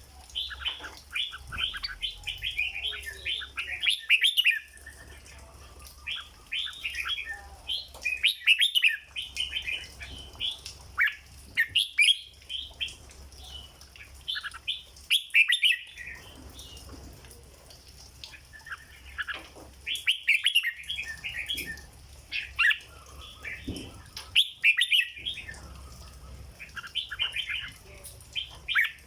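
Red-whiskered bulbul singing: short bursts of quick, bright whistled notes in phrases of a second or two, repeated about every three to four seconds with brief pauses between, over a faint low hum.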